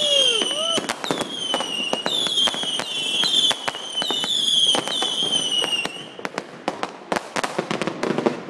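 Consumer fireworks going off: a string of high whistles, each falling in pitch, follow one another for about six seconds amid sharp cracks and bangs. After that only scattered bangs and pops remain.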